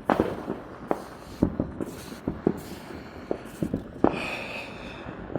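Fireworks going off in the distance, with irregular bangs and pops overlapping. Louder bangs come right at the start and about four seconds in, and the second is followed by about a second of hissing.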